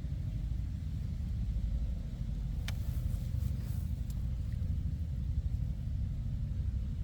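Low, rough rumble of wind buffeting the microphone, with a faint sharp click about two and a half seconds in.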